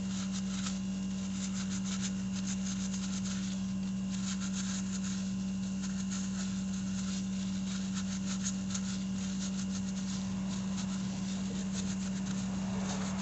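Irregular light scratchy scrubbing and rubbing as dirt is cleaned off a motorcycle front brake caliper, over a steady low hum.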